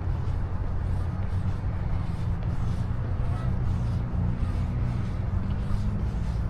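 Steady low rumble of motor vehicle traffic, with a constant engine hum.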